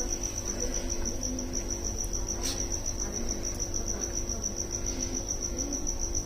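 An insect chirping: a steady, rapid, high-pitched pulse, about six or seven a second, with a single soft click about two and a half seconds in.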